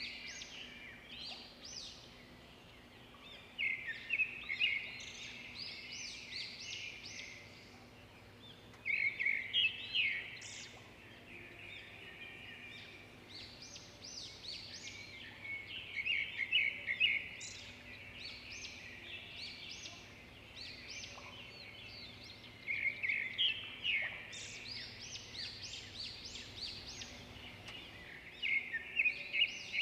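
Birds calling in chattering bursts that swell about every five to six seconds, over a faint steady low hum.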